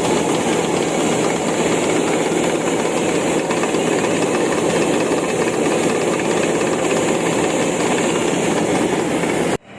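Combine harvester running while harvesting rice: a loud, steady mechanical clatter of engine and machinery that cuts off abruptly near the end.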